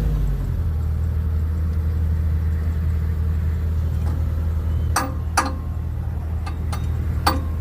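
Diesel engine of the lifting machine running steadily at low revs, its pitch dropping right at the start as the revs fall. Three sharp metallic knocks come about five seconds in, a moment later, and near the end.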